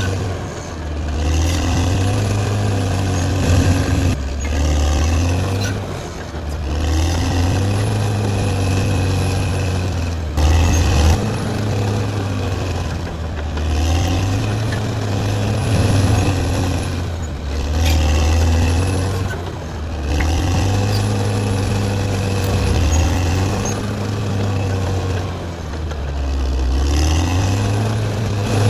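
Caterpillar D6R XL bulldozer's diesel engine working under changing load, its pitch and loudness rising and falling every few seconds as the machine pushes and eases off. A couple of brief knocks stand out.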